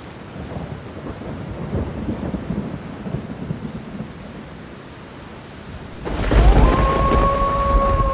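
Electronic ambient intro: a rain-like noise wash with low thunder-like rumbles, then about six seconds in a deep bass swell enters and two synthesizer tones glide upward and hold as a sustained chord.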